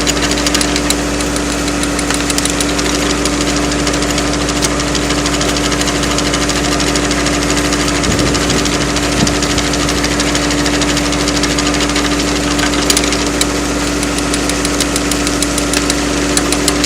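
Small engine of a firewood log splitter running at a steady speed, with scattered sharp clicks over it that come more often near the end.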